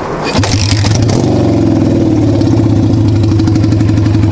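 1975 Kawasaki KZ400 cafe racer's parallel-twin engine starting: a brief clatter as it cranks, then it catches about half a second in and settles into a steady idle.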